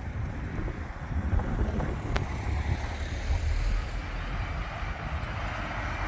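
Heavy truck engine rumbling low as a lorry drives past, with a sharp click about two seconds in.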